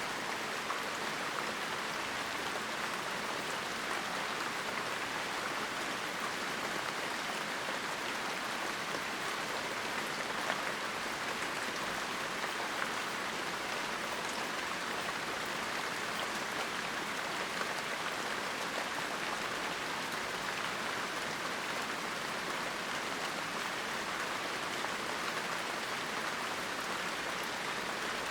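Steady heavy rain: a dense, even hiss of falling rain with a few slightly louder single drops.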